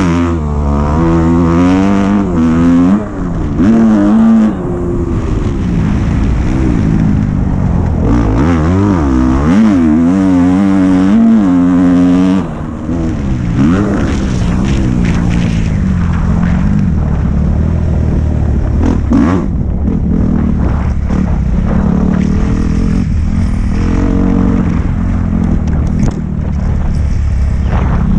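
Dirt bike engine being ridden, its pitch rising and falling over and over as the throttle is worked through the first half, then running steadier, with wind noise and a few short knocks and clatters later on.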